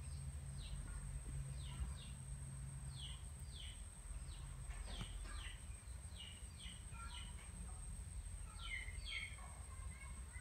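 A small bird chirping over and over: short, falling chirps, often in quick pairs, over a low steady hum and a thin, high, steady whine.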